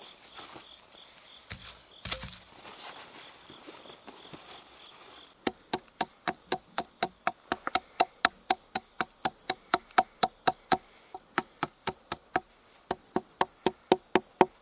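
Insects chirring steadily in the woods; then, about five seconds in, a tarp stake being hammered into the ground, a long run of sharp, ringing strikes at about three a second with two short pauses.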